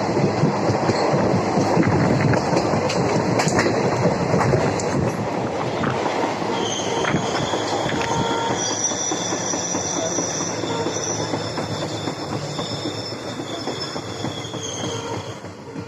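Indian Railways passenger train running on the rails with a rattling rumble; about six seconds in, the wheels start a high, steady squeal against the rails that lasts until near the end, while the overall noise slowly dies down.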